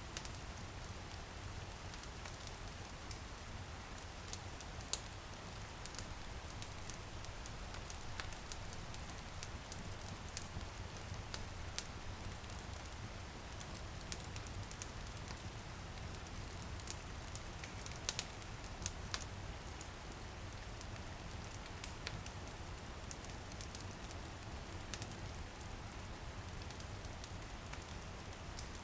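Wood fire crackling in a fireplace, with scattered sharp pops over a steady patter of light rain on a window pane and a low rumble.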